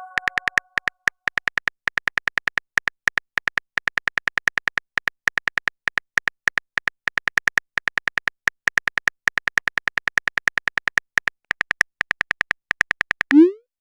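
Texting-app typing sound effect: a rapid, even run of short keyboard clicks, about six a second, as a message is typed out.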